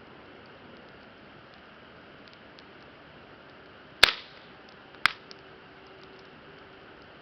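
Wood campfire crackling quietly, with two loud, sharp pops from the burning wood about four and five seconds in.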